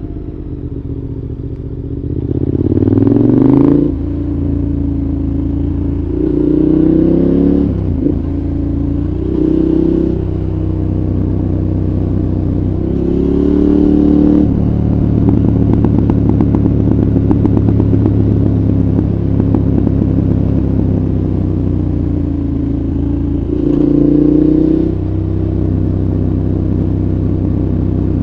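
2014 KTM 1190 Adventure's V-twin engine through a Giannelli exhaust, heard from the rider's seat: about five short bursts of throttle with the revs rising, between stretches of steadier running.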